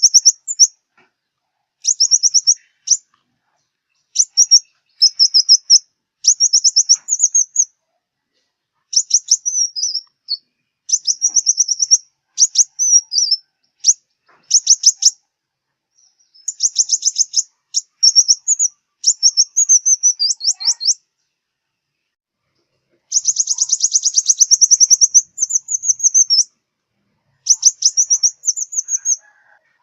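Sunbird song: phrases of rapid, high-pitched twittering trills, each about a second long, repeated with short silent gaps and a longer pause about two-thirds of the way through.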